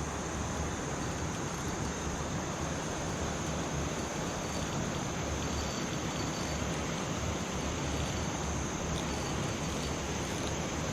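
Steady high-pitched insect drone, typical of crickets, over a constant low rushing noise outdoors.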